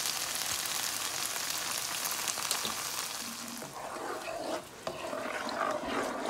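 Chopped onions, garlic and honey jerk sauce sizzling in a hot nonstick frying pan while a wooden spoon stirs through them. The sizzle eases off a little after about three and a half seconds.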